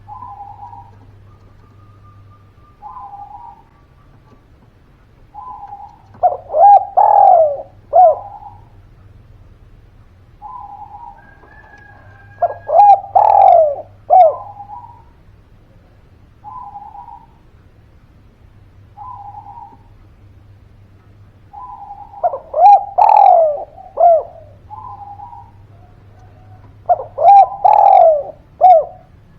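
Spotted dove (derkuku) singing in repeated cooing phrases: soft single coos lead into four louder bursts of falling coos.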